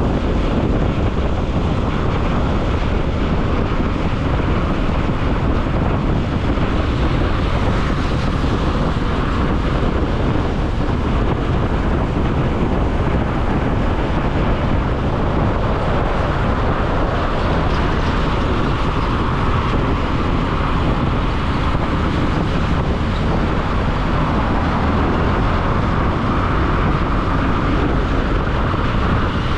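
Steady wind rush on the microphone of a moving motorcycle, with engine, tyre and traffic noise underneath, unchanging throughout.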